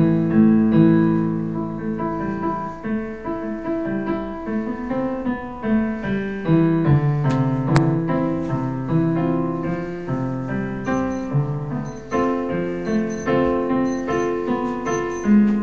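A recorded piano tune playing back: a steady flow of notes and chords, with a single sharp click about eight seconds in.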